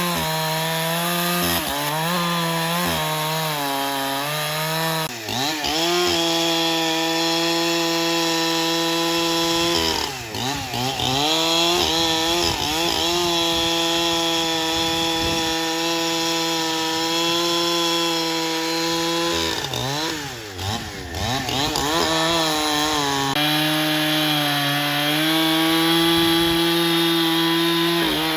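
Powered sawmill saw running and cutting black teak, with a steady motor note that sags briefly under load and recovers several times.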